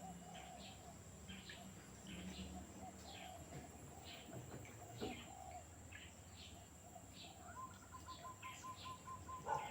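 Small birds chirping in short, high calls repeated every half second or so, over a faint low hum.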